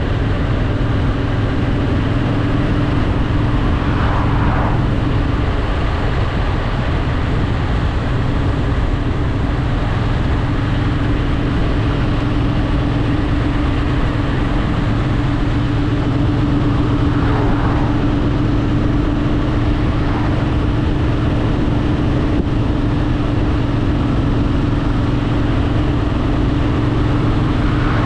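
Honda Shadow VT750 V-twin engine running at a steady cruising speed, its even low note holding over wind noise.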